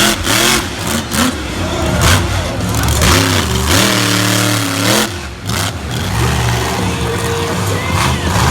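Monster truck engine revving hard, the throttle worked up and down; the revs climb a little after three seconds in, hold for about a second, then drop sharply.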